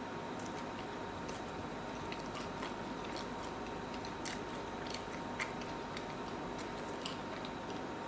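Close-up chewing: soft, scattered wet mouth clicks and smacks from a person eating, over a steady background hiss.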